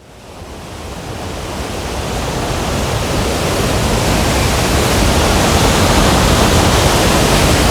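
A waterfall in full spate after heavy rain: a loud, steady rush of falling water that fades in over the first few seconds.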